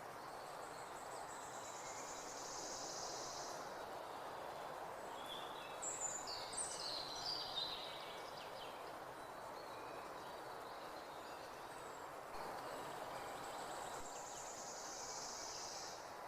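Spring forest ambience: a steady background hiss under birdsong. About six seconds in, a bird sings a short burst of quick, high, falling notes, the loudest sound. A high buzzy trill sounds for a few seconds near the start and again near the end.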